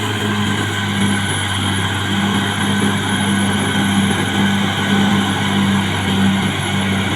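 Caterpillar D6R XL bulldozer's diesel engine running steadily under work, a continuous drone with a slight regular pulse and a thin high whine above it.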